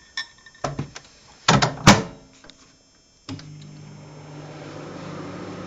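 A few knocks and clicks with a loud clack about two seconds in as the microwave oven is loaded and shut. About three seconds in, the microwave oven starts running with a steady hum.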